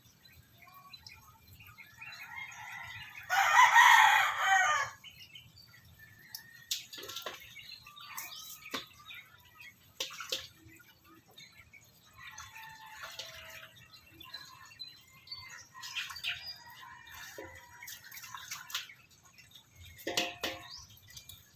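A loud, drawn-out animal call lasting about a second and a half, about three seconds in, followed by scattered short clicks and knocks.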